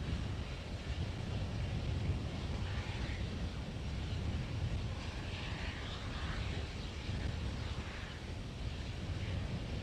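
Steady low outdoor rumble with a faint hiss above it, as from a microphone left open at the launch site.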